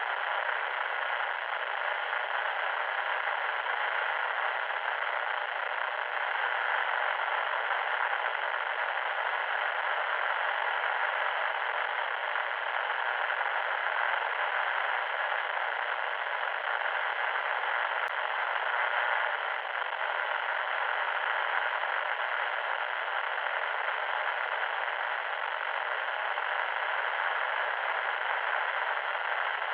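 Loud static noise: a steady, unbroken hiss held in the middle range, like radio static.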